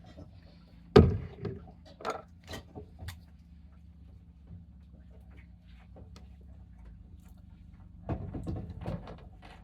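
Handling noises: a sharp thump about a second in, a few lighter knocks and clicks after it, then a short spell of clattering near the end, as of items and fittings being moved about in a small room.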